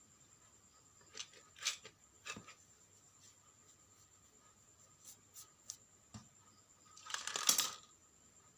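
Scattered light clicks and short rustles of objects being handled, in a cluster between one and two and a half seconds in, a few more around five seconds, and a longer rustle about seven seconds in, the loudest sound. A faint steady high-pitched whine lies underneath.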